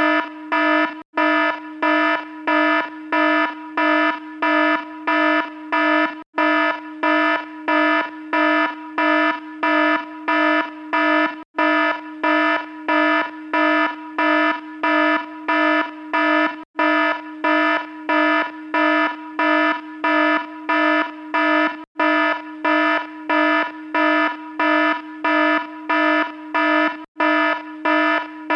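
Electronic alarm buzzer sounding a harsh, buzzy tone in rapid on-off pulses, about two to three a second, with a very brief break about every five seconds.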